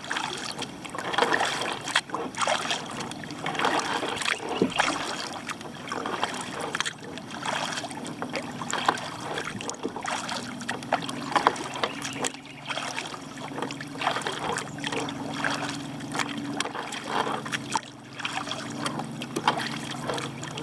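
Kayak paddle strokes dipping and splashing in the water, with water trickling off the blades, about one stroke a second. A steady low hum joins about halfway through.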